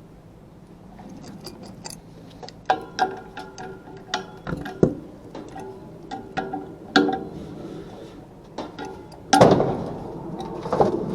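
Metal tools and parts clinking and knocking: a string of sharp hits, several with a brief metallic ringing, then a louder rattling clatter about nine seconds in.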